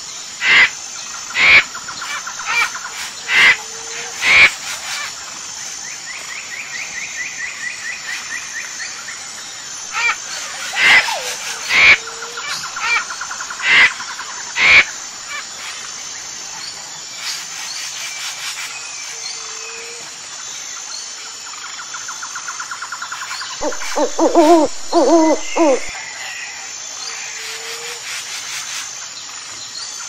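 Wild birds calling: two runs of loud, sharp calls about once a second, a short trill, and a lower call of several pitched notes near the end, over a steady high-pitched pulsing in the background.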